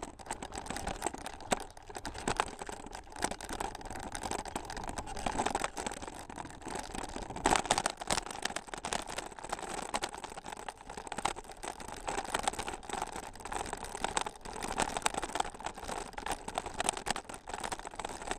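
A bicycle jolting along a rough trail: dense, irregular rattling and knocking from the bumps, over a steady rolling noise from the tyres.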